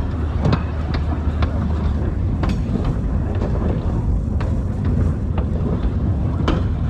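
2000 class railmotor travelling along the line: a steady low rumble of engine and wheels, with irregular clicks and knocks from the wheels and the carriage.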